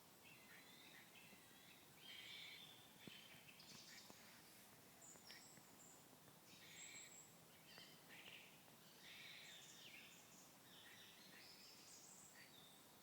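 Faint bird calls, short harsh notes repeated every second or so over a quiet outdoor background.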